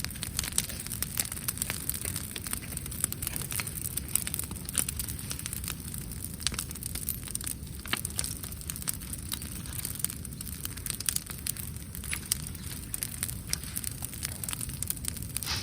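Brushwood campfire crackling steadily, with many small sharp pops and snaps over a low rush of flame.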